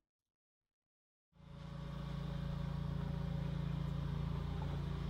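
A small engine starts up about a second in and runs steadily at an even idle.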